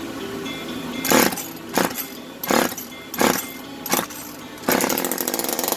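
Echo CS-271T chainsaw's small two-stroke engine being pull-started: five quick rope pulls about two-thirds of a second apart, then the engine catches and runs near the end. It starts, showing the ignition coil and flywheel work.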